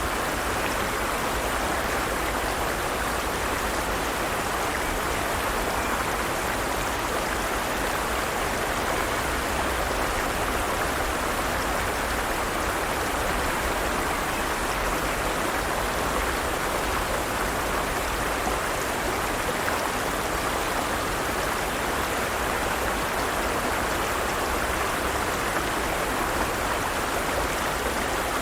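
Forest stream, water running steadily over rocks.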